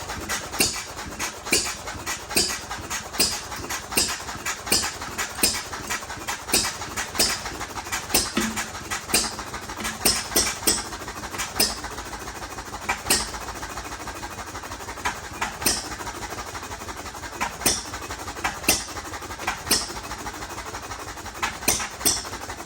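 Novo hit-and-miss engine running, its exhaust firing in sharp pops about one to two a second at uneven spacing, with a longer run of fewer firings around the middle. It is the engine's first run after being freed from a seized, water-filled crankcase.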